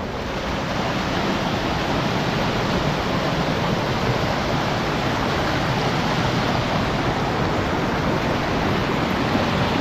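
Mountain stream rushing over rocks: a steady, even roar of water.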